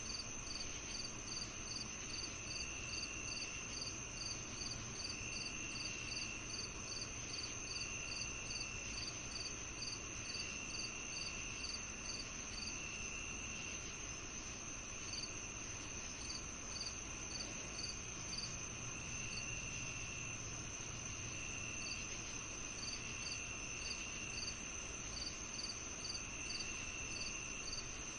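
Summer evening insect chorus of crickets: one insect chirping steadily about twice a second, a continuous high trill behind it, and a lower trill that comes and goes in spells of about a second.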